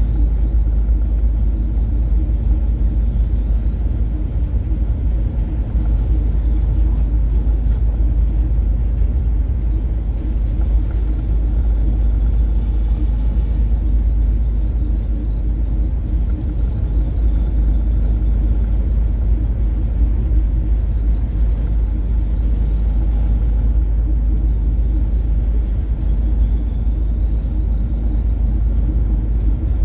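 Steady low drone of a coastal cargo ship's diesel engine and hull under way, a deep rumble with a few constant tones above it.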